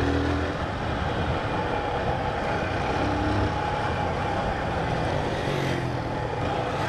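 Honda CG Titan 150 single-cylinder motorcycle engine running at town riding speed, with wind rushing over the helmet camera's microphone.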